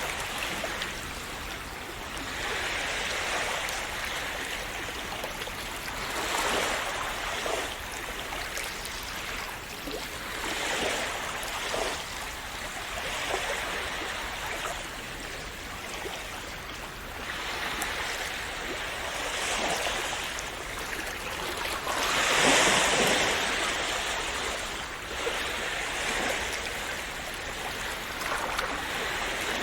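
Small sea waves washing onto a shore, each swell rising and falling every few seconds, with a bigger wave breaking about three-quarters of the way through.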